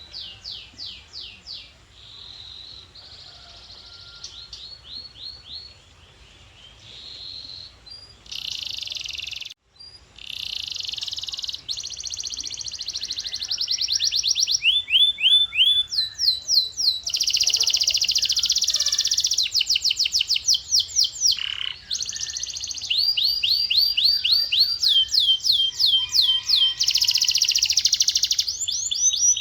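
Male canary singing long runs of fast repeated high trills and rolls, changing from one phrase to the next every second or two. The song grows louder about halfway through.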